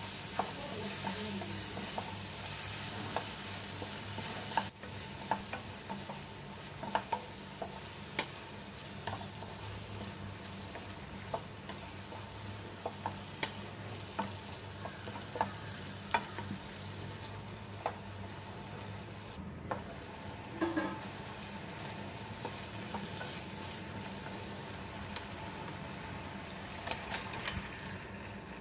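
Onions and tomatoes frying in a non-stick pan while a wooden spatula stirs them: a steady sizzle with scattered sharp taps and scrapes of the spatula against the pan.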